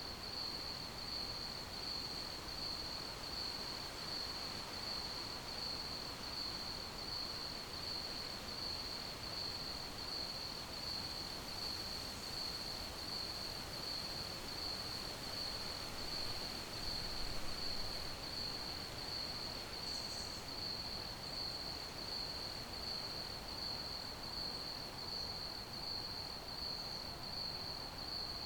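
Crickets chirping in an even, continuous trill pulsing about twice a second, over a steady background hiss. A few faint higher chirps sound about twenty seconds in.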